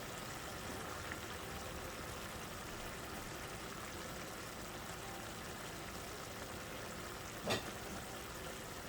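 Chicken sizzling faintly and steadily in a frying pan, with a single short knock about two-thirds of the way through.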